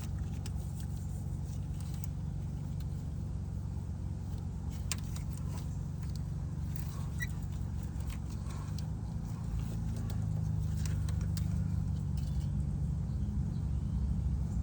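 Scattered metallic clicks and clinks of hand tools as a part is taken off the car's serpentine belt drive, over a steady low hum that gets a little louder about two-thirds of the way through.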